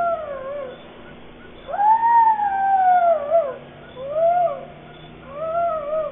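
An animal howling: four drawn-out wailing calls that rise and fall in pitch, the second, about a second and a half long, the longest and loudest.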